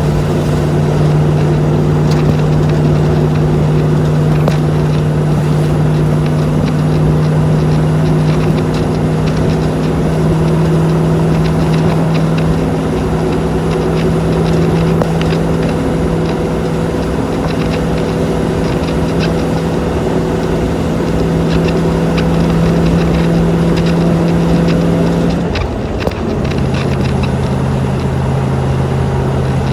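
1984 Land Rover's V8 engine running at a steady speed, its note creeping slowly higher. About 25 seconds in the note breaks briefly, then settles lower and steady.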